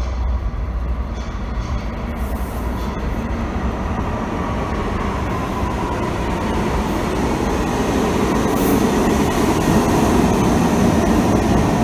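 Train pulling into the station, its rumble growing steadily louder as it approaches the platform.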